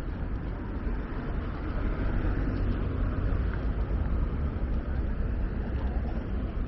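Steady outdoor city street ambience: a constant deep rumble with a hiss above it, no single event standing out.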